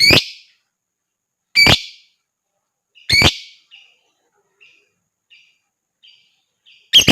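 Lovebird giving loud, harsh single calls: three about a second and a half apart, then a gap filled with soft short chirps, and a fourth near the end.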